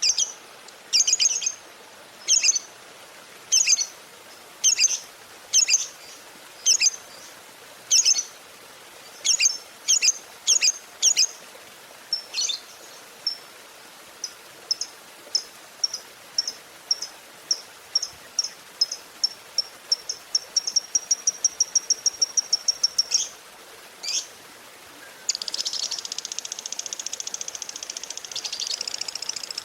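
Lovebird calling. About ten loud, shrill chirps spaced roughly a second apart are followed by a run of short clicking notes ('ngetik') that speed up into a fast rattle. In the last few seconds this gives way to a long, unbroken rapid chatter, the 'ngekek panjang' long trill prized in fighter lovebirds.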